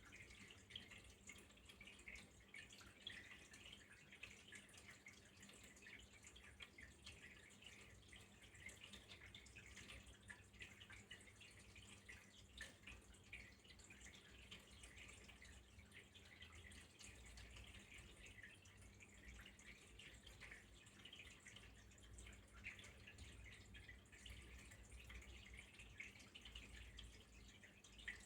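Faint, steady trickle of flowing water.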